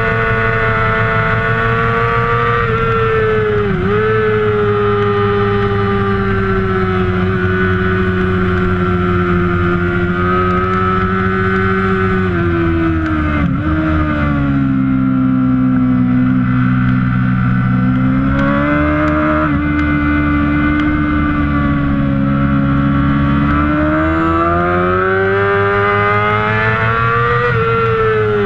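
Kawasaki ZX-6R inline-four race engine running hard, its pitch rising and falling through the gears. There are quick breaks at gear shifts about four and thirteen seconds in, a drop to a lower pitch midway, and a climb again near the end before it falls off.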